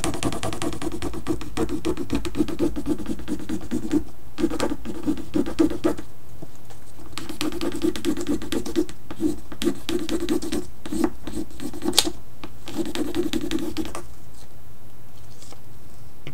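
Wooden burnishing stick rubbing a rub-on transfer onto a painted board: rapid scratchy back-and-forth strokes in several spells with short pauses, stopping near the end.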